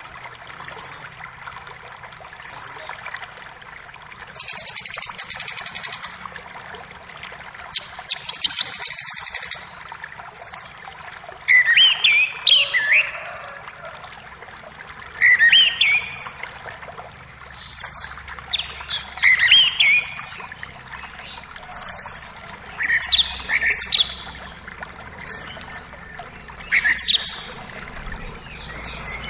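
Several songbirds singing over the steady rush of a forest creek: a short high note repeated every second or two, warbled phrases, and two buzzy trills of a second or more.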